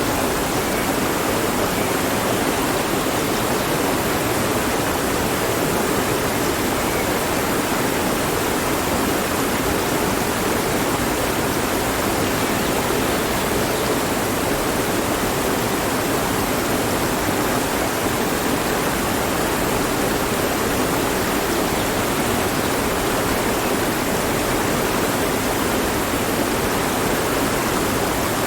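Mountain stream rushing steadily over rocks, an even full splashing roar of water with no let-up.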